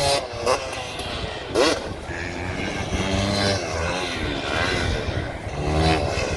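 Dirt bike engines revving, their pitch rising and falling several times, with quick sharp rises about half a second in, at one and a half seconds, and again near the end.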